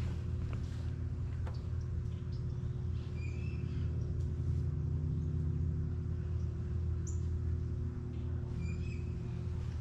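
Small birds chirping a few brief times over a steady low hum and rumble.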